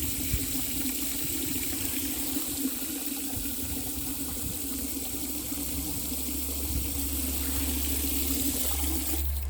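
Water running steadily from a tap, filling a container with water for the chickens. It shuts off suddenly near the end.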